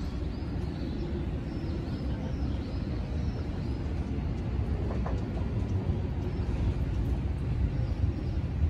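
Tobu 10000-series electric commuter train rolling into the station, a low rumble of wheels on rail that grows steadily louder as it nears. A brief thin squeal sounds about five seconds in.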